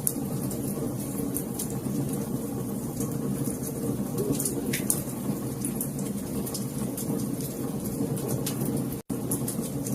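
Wood fire crackling, with frequent sharp pops and snaps over a steady low rumble of the flames. The sound cuts out for an instant about nine seconds in.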